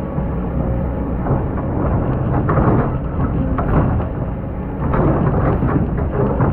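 Excavator's diesel engine running under load, with repeated scraping and crunching as the bucket digs through hard, compacted sand.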